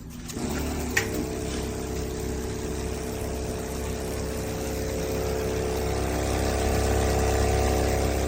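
A small motor or pump running with a steady hum, with a sharp click about a second in.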